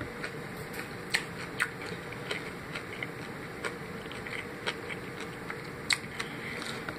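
Close-up chewing of Popeyes fried chicken, with irregular sharp crackles and clicks from biting into the crispy breaded crust.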